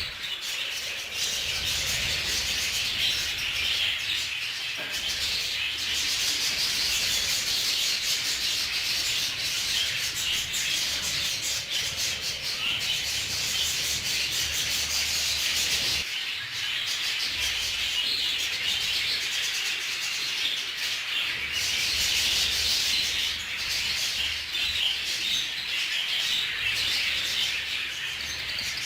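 A large flock of budgerigars chattering and chirping without a break, a dense, busy, high-pitched twittering.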